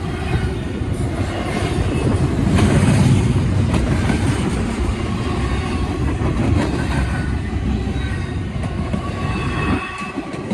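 A train rolling past close by: its railroad cars rumble and its wheels clatter on the rails. It is loudest about two to three seconds in and eases briefly near the end.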